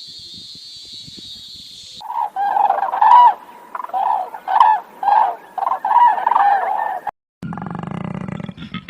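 Fowl calling in a quick series of short, loud, repeated calls, about two a second, after a steady high hiss. The calls cut off suddenly and a low rasping animal sound follows near the end.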